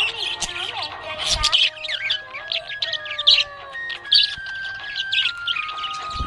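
Budgerigars chirping and chattering in quick, busy chirps, over background music with a slow melody.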